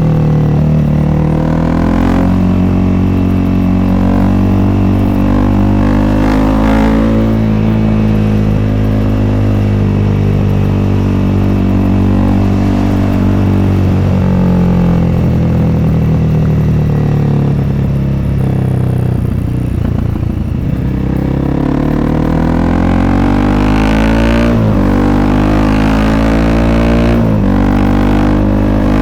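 Honda CRF300L's single-cylinder four-stroke engine running through an FMF Q4 aftermarket exhaust, its pitch climbing under throttle and dropping at each gear change. About twenty seconds in it eases off to a lower rumble, then pulls away again with two quick upshifts near the end.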